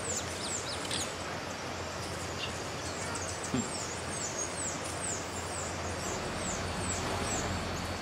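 A bird repeating quick, high, thin chips, each sweeping down in pitch, roughly twice a second, over a steady outdoor background hiss. A single brief low thud comes about three and a half seconds in.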